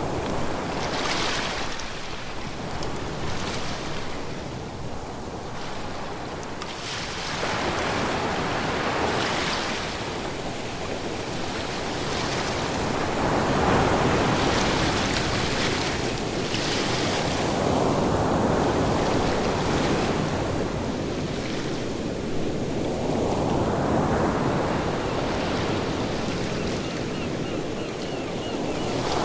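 Ocean waves breaking and washing up a shore, a rushing surf that swells and recedes in slow surges every few seconds.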